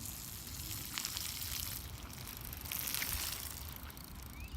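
Outdoor noise from a wet surface in light drizzle: a steady hiss over wind rumbling on the phone microphone, with a few faint clicks.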